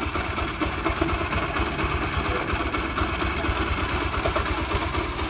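Freshly rebuilt engine of a 2005 Yamaha YBR 125, an air-cooled 125 cc single-cylinder four-stroke, idling steadily with a fast, even mechanical ticking. Some noise remains at idle, which the mechanic puts down to a small engine part that is still missing.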